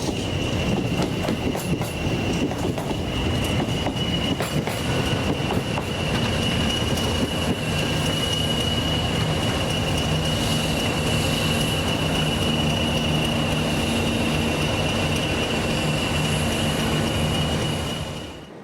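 Train moving on the rails with a steady high-pitched wheel squeal, the wheels clicking over rail joints in the first few seconds. A low engine hum joins about six seconds in, and the sound cuts off suddenly near the end.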